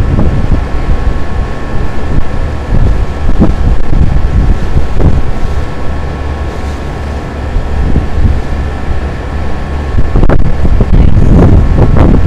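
Wind buffeting the microphone in gusts, over a steady machine hum with a few faint high tones.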